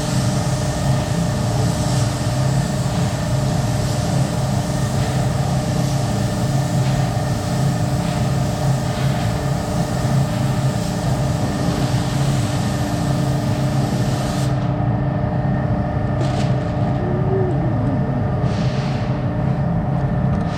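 Steady hum of the paint booth's ventilation fans, with the high hiss of a compressed-air spray gun laying on primer over it. The hiss stops about two-thirds of the way through, and a few short hisses follow.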